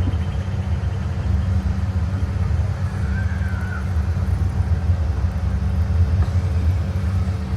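Amusement-park train running slowly, heard from on board as a steady low rumble, with one brief faint high squeak about three seconds in.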